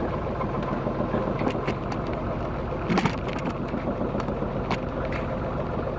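Small sailing yacht's engine running steadily, with a few sharp clicks and knocks over it, the loudest about three seconds in.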